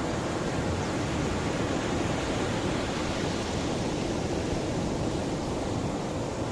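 Mediterranean sea waves: a steady, unbroken rush of surf with no single wave standing out.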